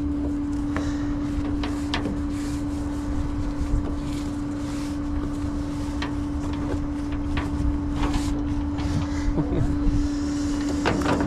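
Tow truck running: a steady droning hum over a low rumble, with a few scattered clicks.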